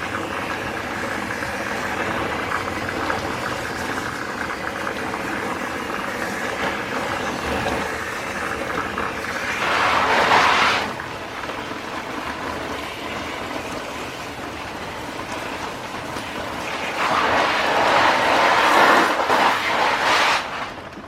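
Electric pressure washer running steadily as a motor whine, with two louder stretches of water spray hissing, about halfway through and again near the end, as the air conditioner's coil is rinsed.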